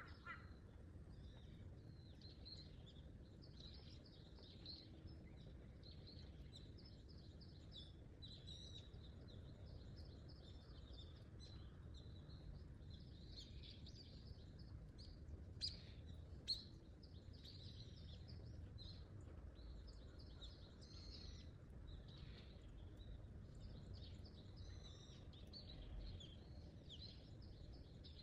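Small birds chirping and twittering almost without pause, faint, over a low steady rumble. Two sharp clicks come near the middle.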